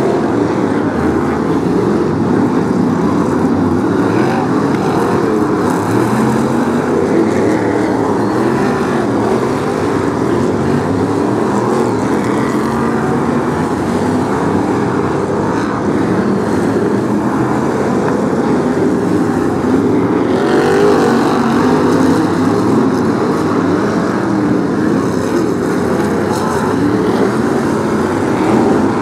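A pack of BriSCA F1 stock cars racing, many big V8 engines running at once in a continuous loud din, swelling briefly about two-thirds of the way through as cars pass close.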